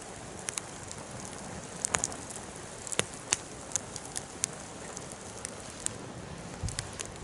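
Wood fire crackling: a steady hiss with irregular sharp pops and snaps, the loudest a couple of seconds in and again about three seconds in.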